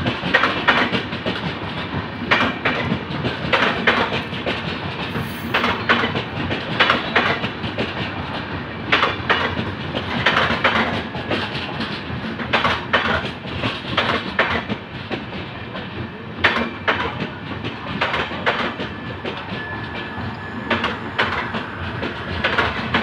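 Indian Railways express passenger coaches rolling in along a station platform. The wheels clatter over rail joints in repeated, often paired knocks over a steady rumble.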